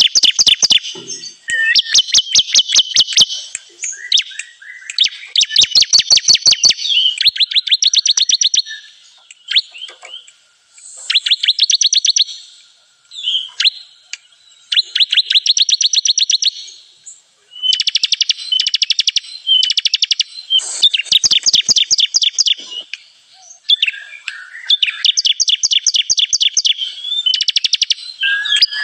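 Ciblek kristal, a prinia, singing in phrases of rapid, evenly repeated chattering notes. Each phrase lasts one to two seconds and comes back after short gaps. It is the kind of song played as a lure to draw wild ciblek in for trapping.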